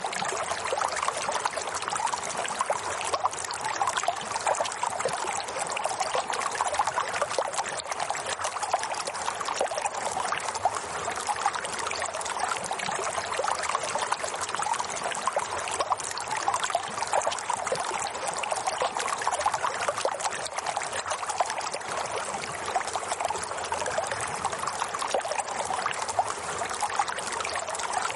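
Running water trickling and babbling steadily, like a small stream, with no change over the whole stretch.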